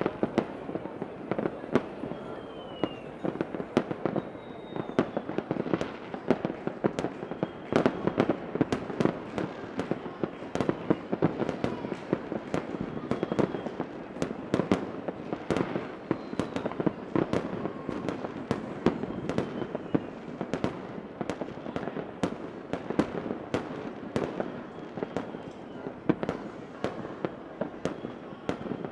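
Fireworks going off in a continuous barrage of bangs and crackling pops, several a second, with a few faint whistles gliding in pitch.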